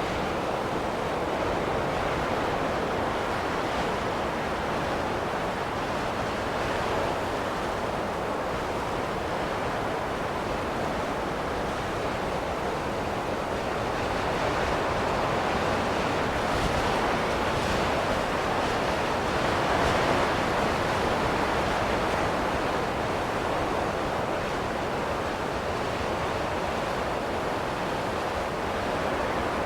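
Steady wind blowing, a soft, even rush that slowly swells and eases, loudest about two-thirds of the way through.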